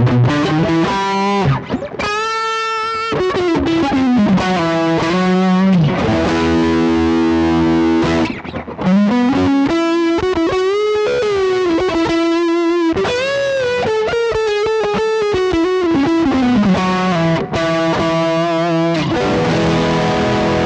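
Electric guitar with overdrive, played through a Behringer GDI21 amp-simulator pedal and a Cuvave ODrive Blues overdrive pedal. It plays single-note lead lines with held notes, string bends and vibrato, broken by a brief pause about eight seconds in.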